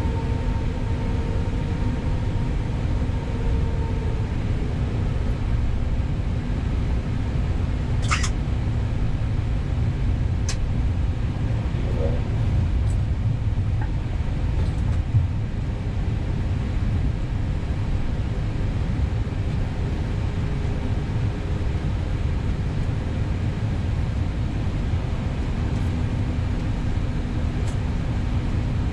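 Steady low rumble of an Airbus A320neo cockpit with the engines at idle, a faint steady hum running through it. A couple of short clicks, likely from cockpit switches, about eight and ten seconds in.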